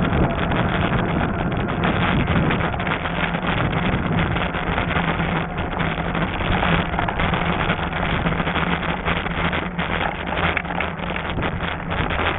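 Wind buffeting the microphone during a fat-tire e-bike ride over a trail, with tyre rumble and a steady low hum.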